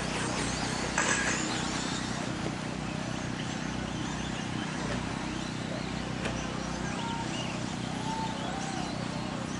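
1/10-scale electric 2wd RC trucks racing on a dirt off-road track: motors whining in short glides up and down in pitch over a steady background noise, with a brief louder burst about a second in.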